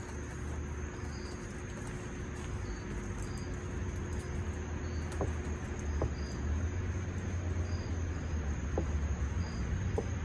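Crickets or other insects keep up a steady high drone, with short high chirps repeating about once a second, over a low, gusting rumble of wind on the microphone. A few faint clicks come through now and then.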